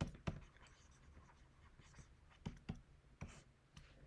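Faint pen-writing sounds: a handful of short ticks and scratches from a pen tapping and stroking on the writing surface.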